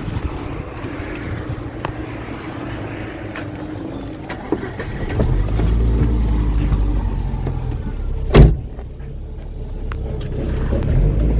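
A car's engine running, with a low steady rumble that grows louder about five seconds in, and one loud thump about eight seconds in.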